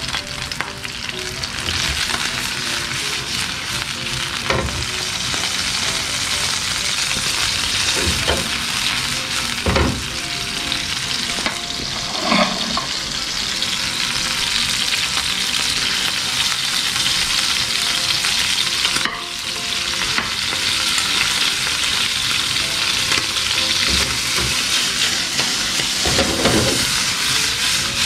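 Diced pancetta sizzling steadily in hot oil in a nonstick frying pan, with a few short knocks and the pan tossed on the gas burner near the end.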